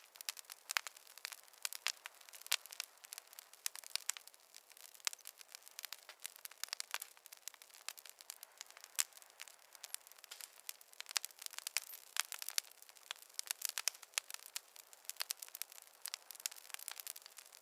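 Wood fire crackling in a fireplace: a steady run of irregular sharp pops and snaps over a faint hiss.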